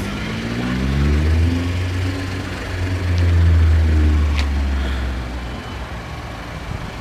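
2014 Ford F-150's 3.5-litre V6 engine revving: its pitch climbs over the first two seconds, holds, then drops back toward idle about five and a half seconds in.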